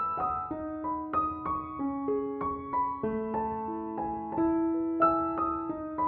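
Gentle piano-style keyboard melody: single struck notes, several a second, fading after each strike over held low notes.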